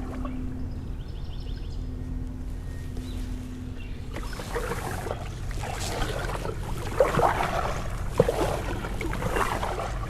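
Canoe paddle strokes in the water: from about four seconds in, a run of irregular splashes and drips as the paddle dips and pulls. A steady low rumble of wind on the microphone lies under it throughout.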